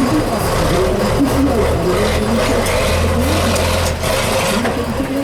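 Off-road trial truck's engine running and revving, the pitch rising and falling as it works.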